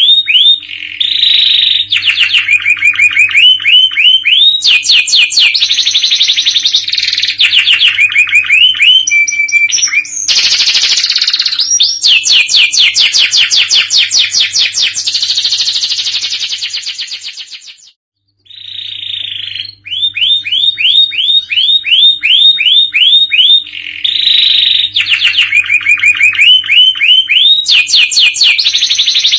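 Domestic canary singing a long song of fast, repeated trills and rolls of sweeping high notes, one phrase running into the next. The song breaks off briefly about eighteen seconds in, then starts again with the same phrases.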